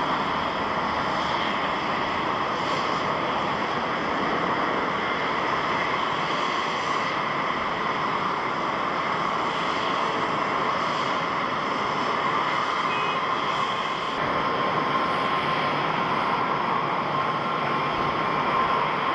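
Jet airliner engines running, a steady rush of jet noise. About two-thirds of the way through the sound shifts, and a steady whine comes in over the noise.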